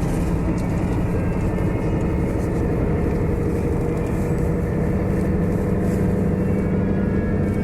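Steady drone of a moving tour coach heard from inside the cabin: engine and road noise, even throughout.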